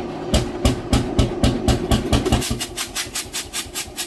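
Old engine firing in sharp, even exhaust beats that speed up from about three a second to about six or seven a second partway through, as it picks up speed after starting.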